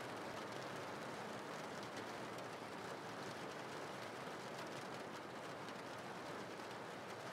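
Steady recorded rain: an even hiss of falling rain with faint ticks of single drops.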